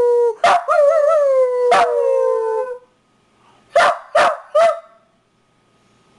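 Dachshund howling: a long held howl, slowly falling in pitch and broken by a couple of sharp barks, ends about halfway through, followed by three quick short barks close together.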